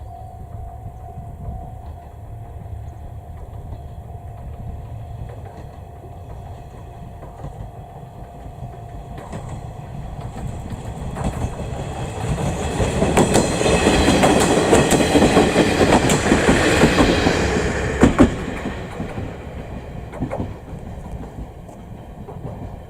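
Aizu Railway diesel railcars AT-351 and AT-401 passing: the rumble of engine and wheels builds over several seconds, peaks with a rhythmic clickety-clack of wheels over rail joints and a sharp clank near the loudest point, then fades away.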